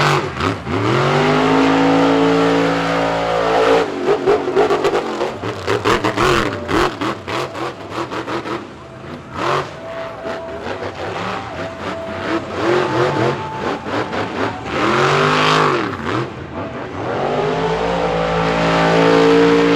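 Monster truck's V8 engine revving hard: it climbs and holds high revs for a couple of seconds, breaks into choppy throttle blips with sharp knocks, then rises again twice in the second half.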